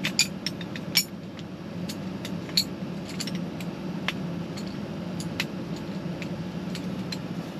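Folding camp chair being opened and set up: a run of light metallic clicks and clinks, thickest in the first second and then scattered. A portable air conditioner hums steadily underneath.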